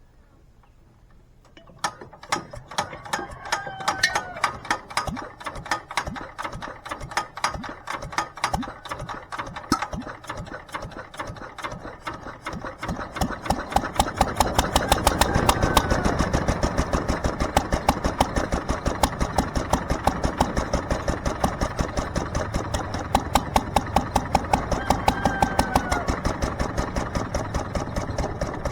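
McCormick-Deering LB single-cylinder engine firing and running with an even beat of sharp exhaust strokes after a brief quiet start. It gets louder from about halfway through.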